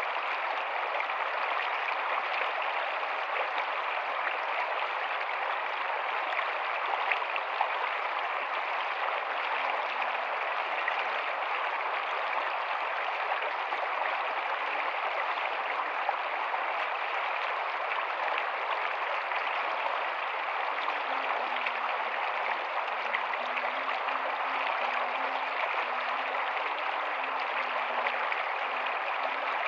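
Rocky stream running steadily: an even rush of flowing water with small splashes scattered through it.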